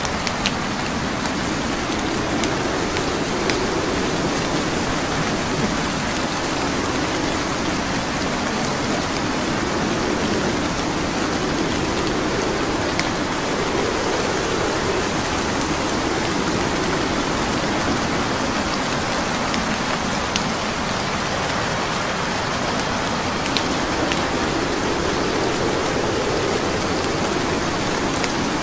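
Steady rain hissing, with a wood fire crackling over it in scattered sharp pops.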